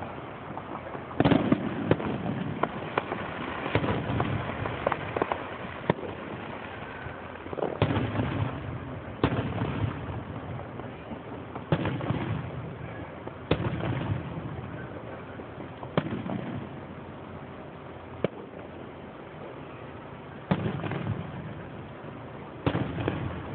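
Aerial fireworks going off in a steady succession, a sharp bang every second or two, each followed by rumbling and crackling. The loudest bangs come about a second in and again near the end.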